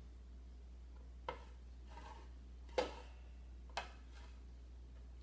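Spreading tool scraping and tapping on a stainless steel plate as it spreads thick gram-flour batter thin. There are a few short knocks and scrapes, about four in all, the loudest near the middle, over a low steady hum.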